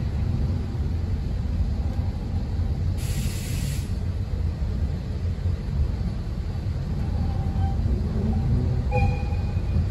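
Oigawa Railway Ikawa Line train rolling slowly, heard from aboard: a steady low rumble of the running gear. There is a short hiss of air about three seconds in and a few faint squeals near the end.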